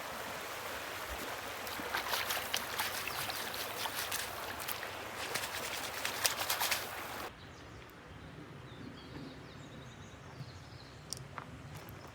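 Mountain creek running, with a string of sharp splashes and clicks over the rushing water. About seven seconds in it cuts off abruptly to a quieter outdoor background with faint chirps and an occasional click.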